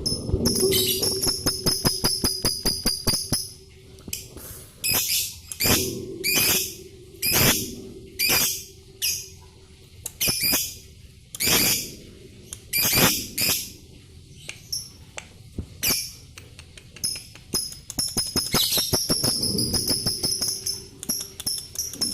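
Lovebird song: a rapid, typing-like chattering trill at the start and again near the end, with a string of separate sharp, high-pitched chirps in between.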